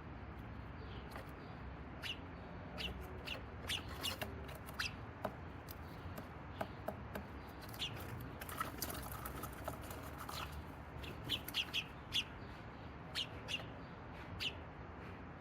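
Sparrows giving short, scattered chirps, in a quick run of several calls near the end, over steady low background noise.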